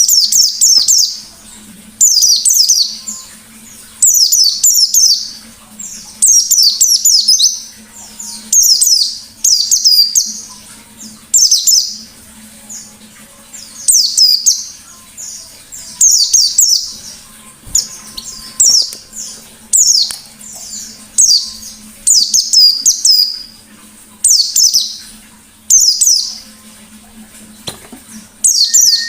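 A white-eye (pleci) singing in loud, high-pitched bursts of rapid twittering notes, each about a second long and coming roughly every two seconds. A faint steady low hum runs underneath.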